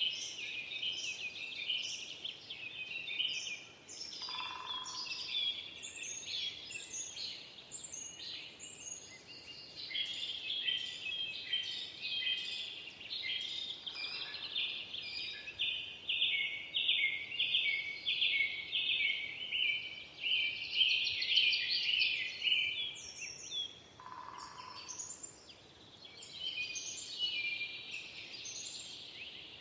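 Forest birds singing together in a dense, continuous chorus of quick high chirps and trills. A lower, brief call cuts in twice, a few seconds in and again near the end.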